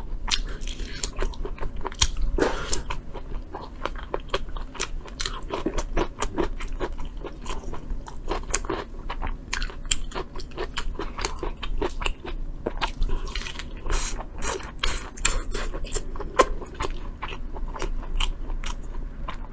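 Close-miked chewing and biting: a person eating, with many irregular wet clicks and crunches.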